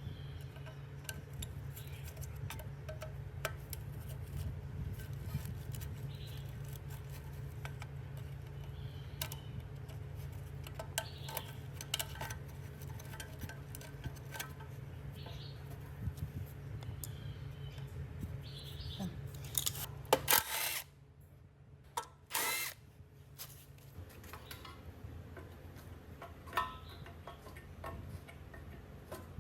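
Workshop tool sounds during rust removal and repair: a steady low hum from a running power tool under light metal clinks and taps. The hum stops about two-thirds of the way through, and two short, loud rushing bursts follow.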